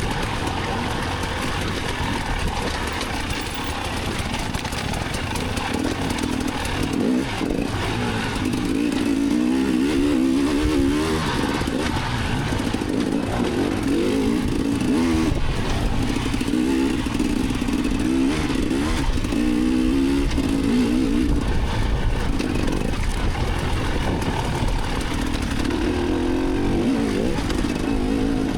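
Enduro dirt bike engine revving up and down while ridden over rough terrain, the pitch rising and falling throughout, with scattered knocks and rattles from the bike.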